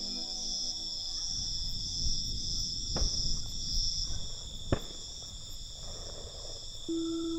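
Crickets chirring steadily in a continuous high-pitched chorus. Soft ambient music fades out about a second in; a low rumble and two sharp clicks follow in the middle, and a held musical note comes in near the end.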